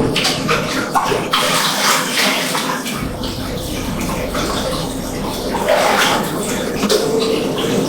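Water running and splashing into a bathtub.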